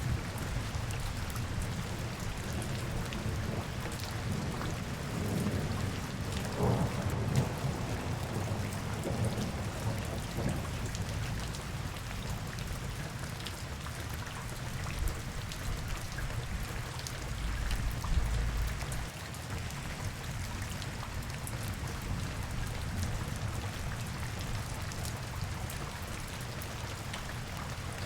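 Steady rain falling on city street surfaces, an even patter and hiss, with a low rumble swelling a few times, around six to ten seconds in and again briefly about eighteen seconds in.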